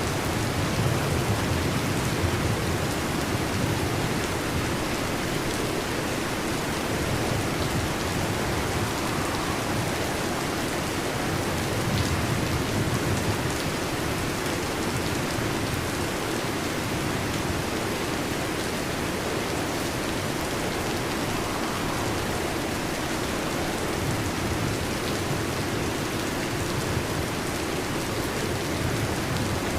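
Steady rain falling, with a low rumble of thunder underneath that swells now and then.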